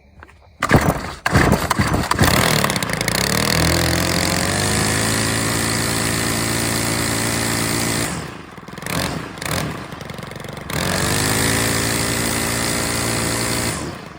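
A Stihl FS91R string trimmer's small 4-MIX engine catches with a few sputters, then settles into steady running. It falters and drops for a couple of seconds, picks back up to a steady run, and cuts off just before the end.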